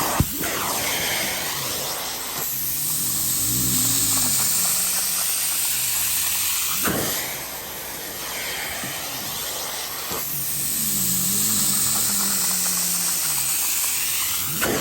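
Portable carpet extractor's cleaning wand spraying and vacuuming across a rug: a steady hiss that swells and fades in long strokes repeating about every seven seconds, with a short click roughly halfway through.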